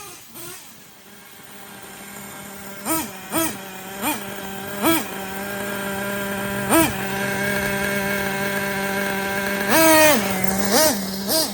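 Small .25 nitro engine of an Ofna Titan RC monster truck running, with a series of short throttle blips that jump up in pitch and one longer rev about ten seconds in. It grows steadily louder over the first several seconds.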